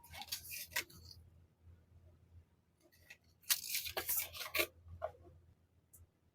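Packaging being handled in an unboxing: two bursts of crinkling, tearing noise, one at the start and a longer one a little past the middle, with faint rustles between.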